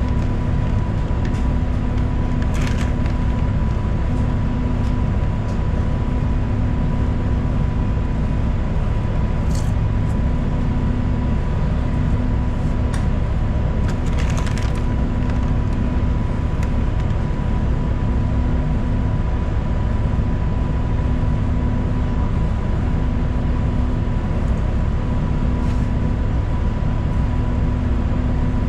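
Ride noise inside a moving city transit bus: a steady low engine and road drone with a constant high whine over it. There are a few brief rattles, one about 3 seconds in and a couple more around 10 and 15 seconds in.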